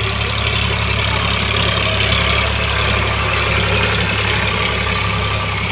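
A 40 hp tractor's diesel engine running steadily at an even speed.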